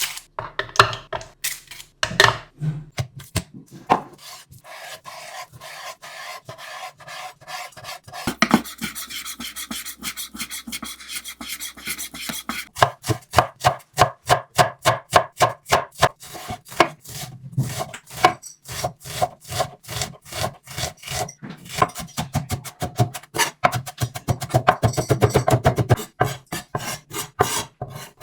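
Kitchen knife chopping food on a wooden cutting board in a long run of sharp strokes, very fast for a few seconds about a third of the way in, then steady at roughly three to four strokes a second.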